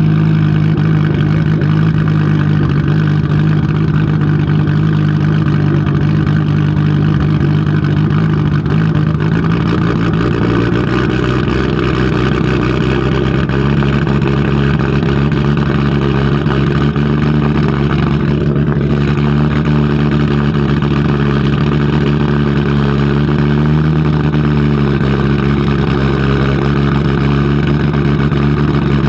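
Audi Sport Quattro S1 E2's turbocharged inline five-cylinder engine running loudly at a steady low speed, with a brief dip and rise in pitch about 24 seconds in.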